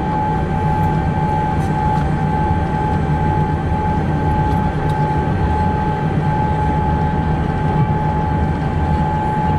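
Boeing 787-8 cabin noise on the ground after landing: a steady low rumble with one steady high whine held throughout.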